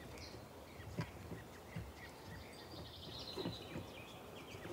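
Birds chirping in short high calls, with a brief trill about three seconds in, over faint outdoor background sound; a few soft low thumps.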